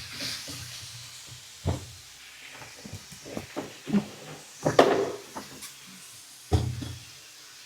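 Kitchen handling sounds: a scattering of light knocks and clatter as containers and cupboard doors are moved and set down, the loudest knocks about five seconds and six and a half seconds in.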